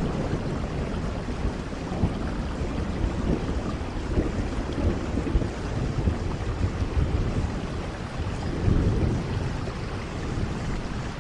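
Steady rain hissing, with a low rumble of thunder underneath that swells about two-thirds of the way through.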